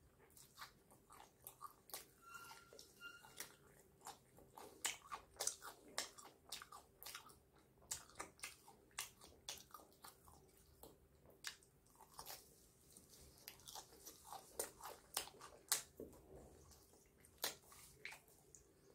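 Close-up eating of fried chicken leg pieces: wet mouth clicks, bites and crunches of the crispy coating as meat is chewed and pulled off the bone, coming in quick irregular succession.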